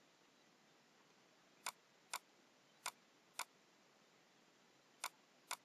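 Six sharp computer mouse clicks in three pairs, each pair about half a second apart, over faint background hiss.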